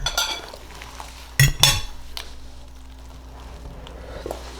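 Eating utensil clinking and scraping against a bowl as food is pried out, with two sharper clinks about a second and a half in.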